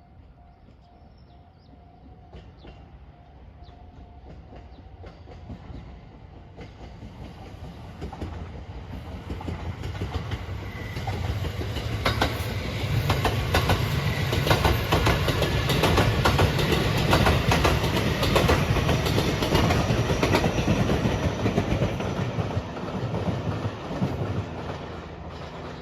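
A train approaching and passing over a level crossing, its wheels clattering over the rail joints. The sound builds and is loudest for several seconds in the middle, then eases. At the start a level-crossing warning bell rings in an even repeating pattern.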